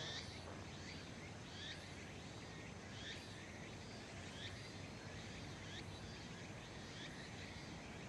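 Faint outdoor ambience with a bird repeating a short call about every one and a half seconds, over low steady background noise.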